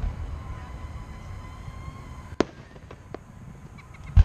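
Aerial fireworks shells bursting over a steady low rumble: one sharp bang a little over two seconds in, a weaker one just after, then a cluster of loud bangs near the end.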